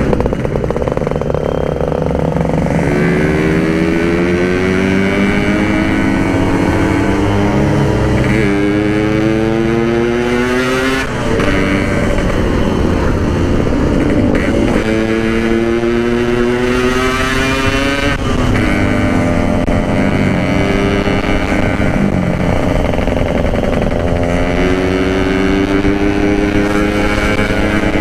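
Yamaha RX-King 135 cc two-stroke single-cylinder motorcycle under way, its engine climbing in pitch through each gear and dropping back at the shifts, about five times in a row.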